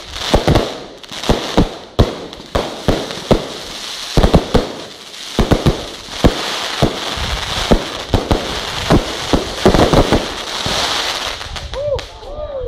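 Aerial fireworks going off: a rapid, irregular string of sharp bangs from launches and shell bursts, with crackling in between.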